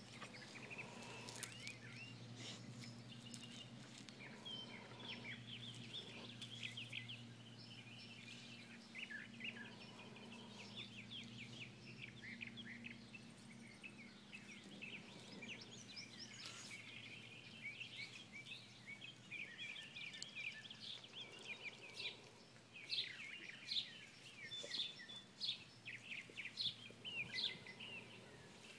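Birds chirping outdoors: many short, high-pitched chirps and twitters overlapping throughout, with a faint low hum underneath during the first half.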